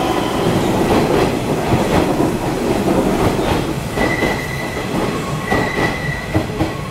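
Nishitetsu electric train running along the platform and slowing, with its wheels clattering over rail joints. A high-pitched squeal, typical of braking, comes in about four seconds in and again near the end.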